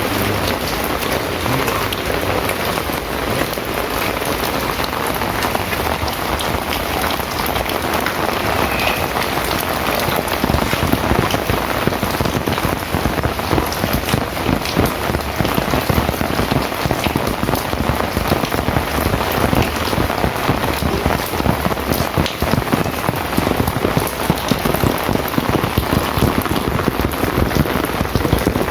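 Heavy rain falling steadily, with many individual drops striking a hard surface close by.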